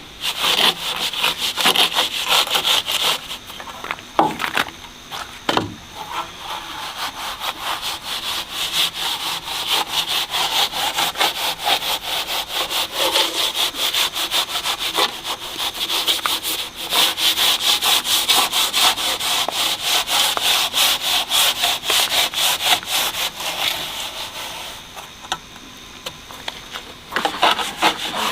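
Rapid, rhythmic rubbing strokes of a hand tool working a hard surface, briefly interrupted a few seconds in and easing off near the end.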